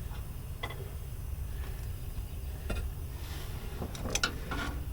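Screwdriver working a plastic shipping cap out of a power steering box port: a few light clicks and taps, several close together near the end, over a low steady hum.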